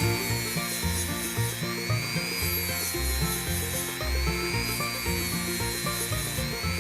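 A lively reel tune plays over a belt sander running a conditioning belt against the steel wrench, a rubbing grind with a high whine that rises and falls about every two seconds.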